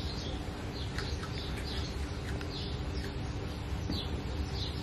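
Birds chirping, short high falling chirps about twice a second, over a steady low hum.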